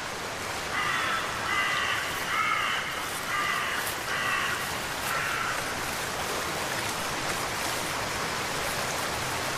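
A bird giving about six short, harsh calls in a row over the first half, over a steady hiss of rain or running water.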